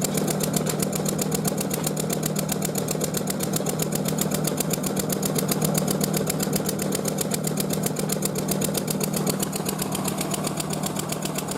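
Machinery running steadily, a motor or blower with a constant low hum and a rapid, even pulsing on top.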